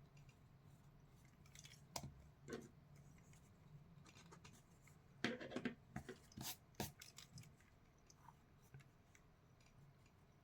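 A few short scratchy strokes of a pencil on paper, a couple about two seconds in and a quick cluster around the middle, over a faint steady low hum.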